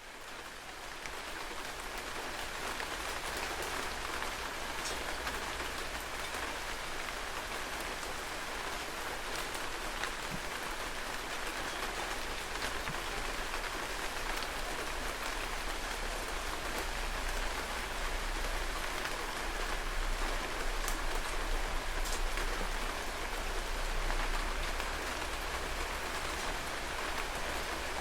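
Heavy rain falling steadily, a dense even hiss with scattered distinct drops, fading in over the first second.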